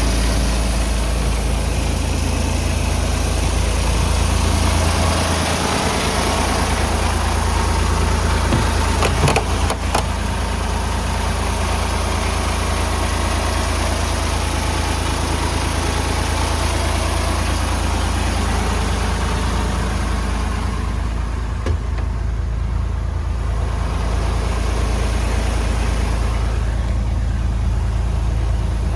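Mercedes-Benz Actros 1843 tractor unit's diesel engine idling steadily, with a couple of brief knocks about nine to ten seconds in.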